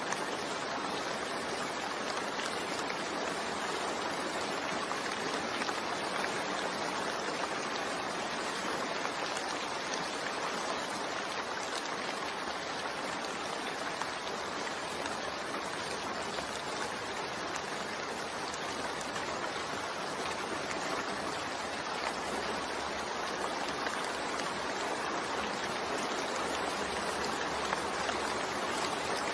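Steady rainfall, a dense even hiss of falling rain with no distinct drops or breaks.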